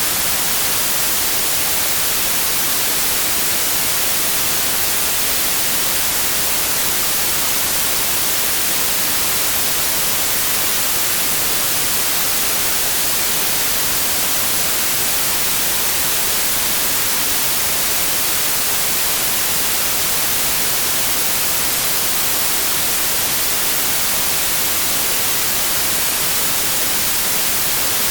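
Steady synthetic white noise: an even, unbroken hiss with its energy weighted toward the high end.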